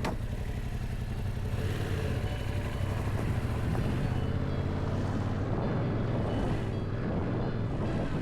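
Motorcycle engine running steadily while riding, with a low engine drone and road and wind noise.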